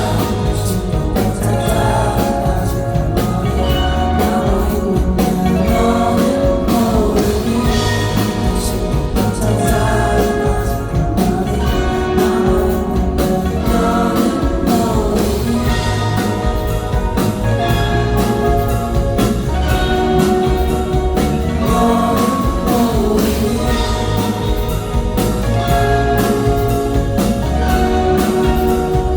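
Live rock band music, loud and continuous, with drums, guitars and voices singing along.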